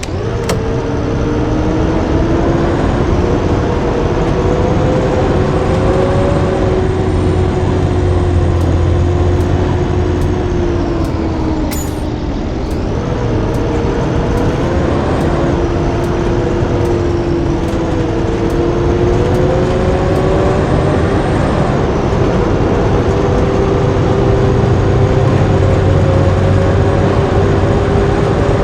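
Blue Bird D3FE school bus under way, its engine running steadily with a pitch that rises and falls several times as engine speed changes. Faint light clicks and rattles come and go.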